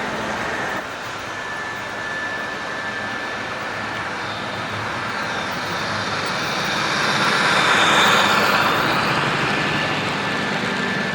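HO scale model train running along the layout track, its motor and wheels giving a steady rolling whir that grows louder as it passes close about eight seconds in, then eases off.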